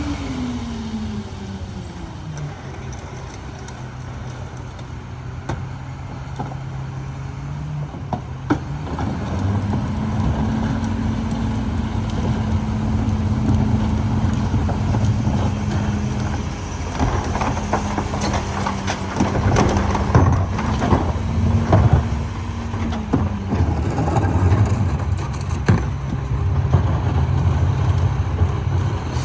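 Mack Granite garbage truck's diesel engine coming down to idle, then revving up and holding higher revs to drive the New Way King Cobra's hydraulics. In the middle comes a run of clanks and rattles as a cart is handled and dumped, and the engine drops back to idle near the end.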